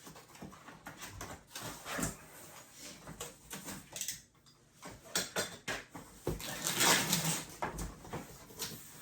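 Unboxing noises: a cardboard box and its packaging being handled and opened, with irregular knocks, clicks and rustling, and a longer rustling burst about seven seconds in.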